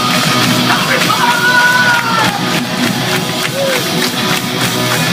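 A pop-punk band playing live at full volume, with distorted guitars and driving drums in a stretch without vocals between sung lines.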